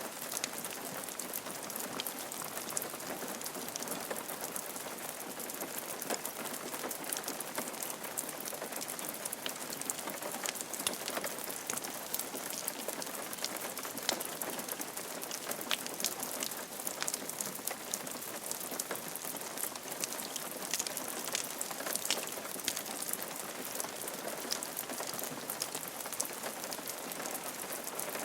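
Steady rain falling on a roof, an even hiss of rain with many distinct drops pattering on the surface.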